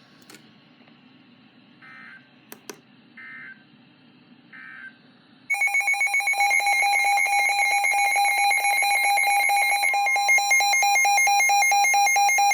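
NOAA Weather Radio Emergency Alert System signalling: three short, faint digital data bursts about a second apart, closing the watch message. About five seconds in, a loud, rapidly pulsing electronic alert tone starts, announcing the severe thunderstorm warning.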